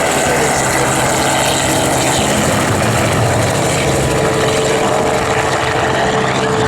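Helicopter in flight: steady engine and rotor noise with a broad rushing hiss.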